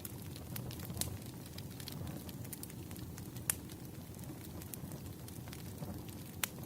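Wood fire burning: a steady low rumble with irregular sharp crackles and pops of the burning logs, one louder pop about halfway through.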